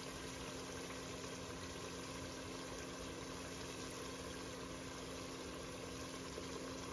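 Stew meat, onions and tomatoes frying in oil in a pot, a steady sizzle with a faint low hum underneath.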